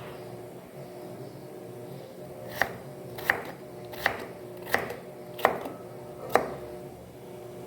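Six sharp knocks on a hard surface, evenly spaced about 0.7 s apart, starting between two and three seconds in.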